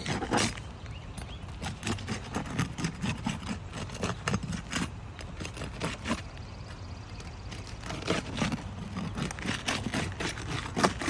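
Irregular taps, knocks and scrapes on asphalt roof shingles as a roof repair tool is worked and feet shift on the roof, with a sharp louder knock near the end.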